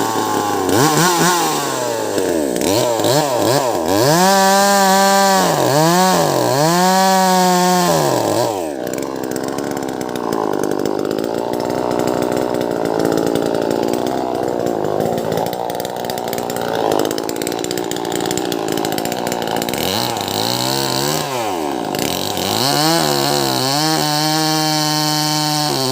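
Wagner 580 two-stroke chainsaw with a 16-inch bar, revved up and down repeatedly. It then runs a long steady stretch under throttle, cutting into a large log, and is revved up and down again near the end.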